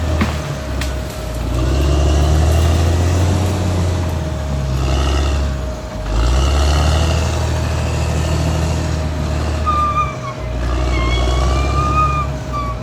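Caterpillar D6R XL bulldozer's diesel engine working, its low drone dipping briefly and picking up again several times. High squeals that rise and fall sound over the engine, plainest in the last few seconds.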